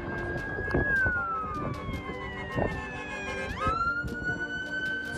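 Emergency vehicle siren wailing: it holds a high tone, slides down over a second or so, then sweeps sharply back up about three and a half seconds in and holds again.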